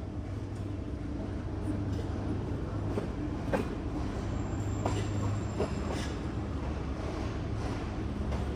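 Passenger train pulling into a station: a steady low rumble of the moving coaches, with a few sharp clacks of the wheels over rail joints in the middle.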